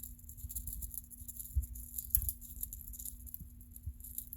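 A parrot picks at and tears apart food with its beak, making small irregular clicks and rattles, with a few soft thuds. A steady low hum runs underneath.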